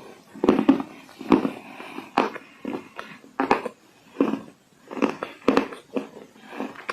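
Dried clay being crunched: a series of short, irregular crunches, about one or two a second.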